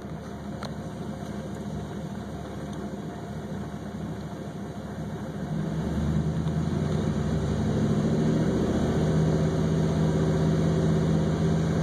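Car engine idling, then brought up to higher revs about halfway through and held there, growing louder.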